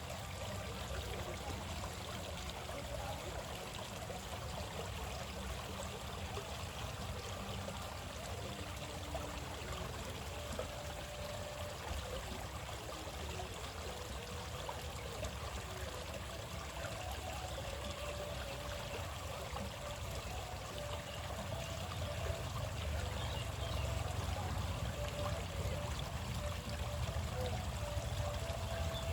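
A steady rushing noise with a low rumble, a little louder from about 22 seconds in, under short, soft, repeated cooing notes of zebra doves.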